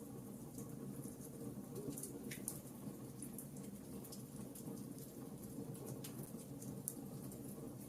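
Wood fire crackling: burning logs giving off many small sharp pops and snaps, irregular and close together, over a steady low sound of the flames.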